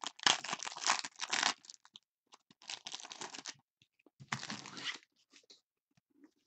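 A trading-card pack's wrapper being torn open and crinkled by hand, in three rustling tears of about a second each; the first is the loudest.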